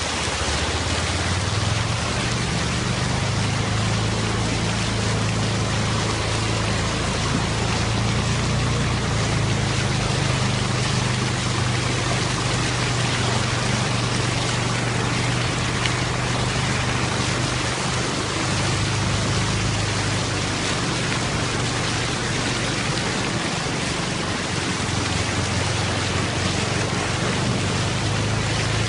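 Heavy rain falling steadily: a dense, even hiss with a steady low rumble underneath.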